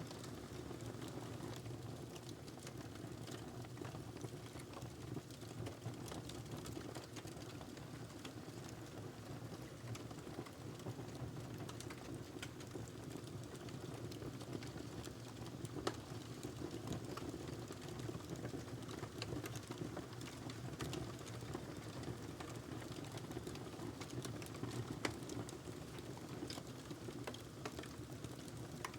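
Wood fire burning in a fireplace: a steady low rumble and hiss of flames with scattered crackles and pops, two sharper pops just past halfway and near the end.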